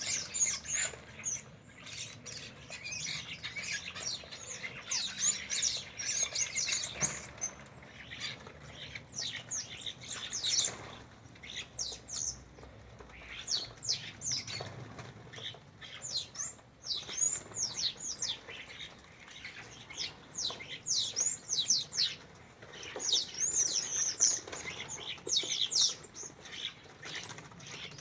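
A crowd of small garden birds at a feeder, calling and chirping almost without pause in quick, high sweeping notes, with wing flutters and short clicks mixed in.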